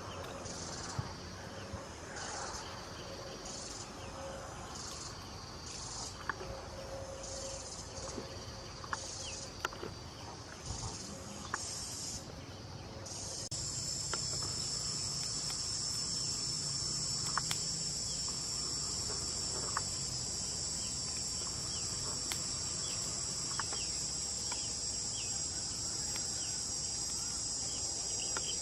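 Insects calling in the forest: high-pitched pulsed calls about once a second, giving way about halfway through to a continuous shrill drone. Scattered faint clicks and knocks throughout.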